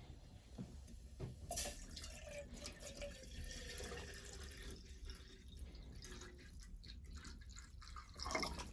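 Water dripping and trickling, quietly, with a few small clicks and knocks.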